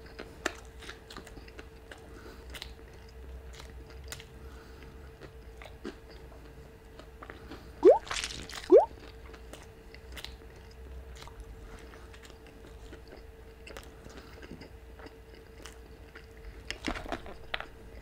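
Close-up chewing of a breaded fried chicken sandwich: soft crunches and wet mouth clicks. Near the middle come two short rising squeaks about a second apart, the loudest sounds. A faint steady hum runs underneath.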